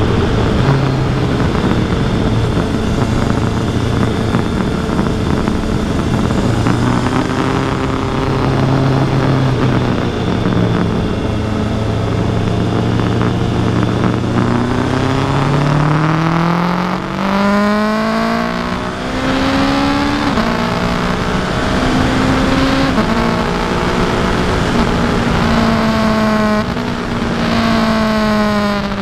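Kawasaki Versys 1000 SE's inline-four engine running on the road with wind rush, steady for the first half. It then accelerates, the note rising and dropping back several times as it changes gear.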